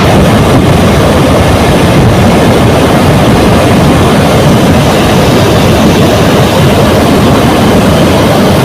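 Loud, steady rush of water pouring out through the dam's spillway.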